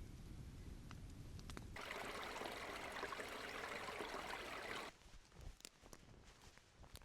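Running water of a forest stream, an even rush that starts abruptly about two seconds in and cuts off suddenly about three seconds later. Before it there is a low rumble, and after it only faint scattered clicks.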